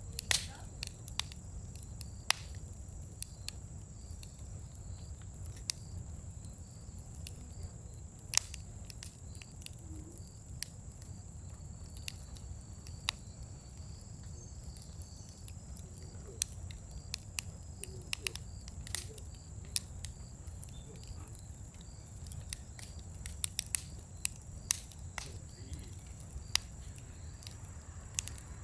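Scrap-wood bonfire crackling, with irregular sharp pops, several in some seconds, over a low steady rumble.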